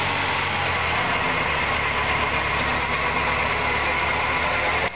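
Lada Niva's engine running steadily at low revs, with a constant hiss over it.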